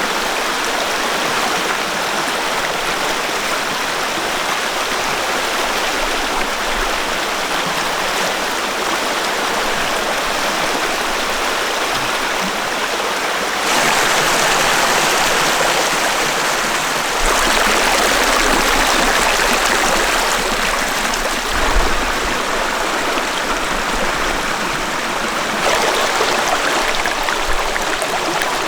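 Mountain valley stream running over rocks: a steady rushing of water that grows louder about halfway through and again near the end.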